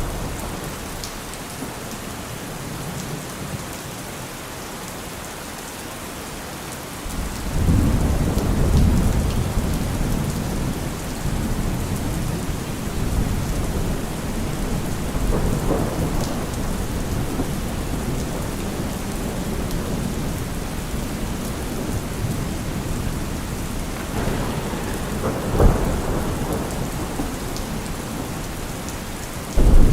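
Heavy rain falling steadily on a car roof, with thunder: a low rumble breaks in about seven seconds in and carries on, swells twice more, and another loud clap comes right at the end.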